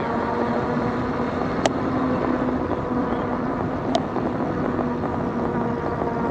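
Electric bike riding along, heard on a bike-mounted action camera: steady rush of wind and tyre noise with a steady motor hum, and two sharp clicks, one near two seconds in and one about four seconds in.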